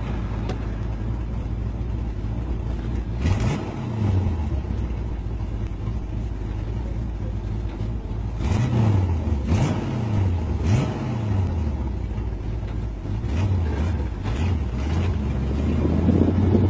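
Big-block Chevy 454 V8 in a Toyota pickup running as the truck is driven, heard from inside the cab. The engine speed rises and falls several times: once about three seconds in, three times in quick succession around the middle, and again a little later.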